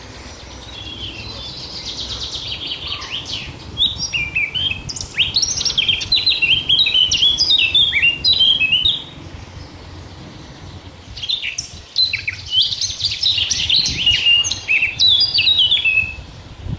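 A songbird singing two long, fast phrases of varied high notes, a few seconds apart, over a steady low background rumble.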